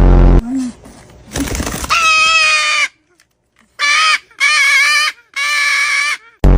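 Pet parrot squawking: four loud, harsh calls in a row, each about half a second to a second long. A heavy low thump comes right at the start.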